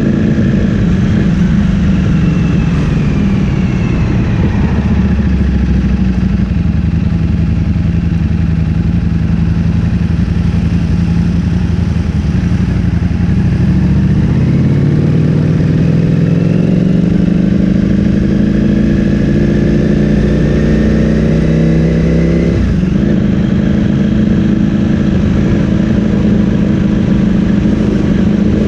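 Ducati Streetfighter V4S's 1103 cc V4 engine through an Akrapovic full-system exhaust, under way on the road. The revs fall a few seconds in and run low and steady. They then climb steadily for several seconds before dropping sharply and settling again.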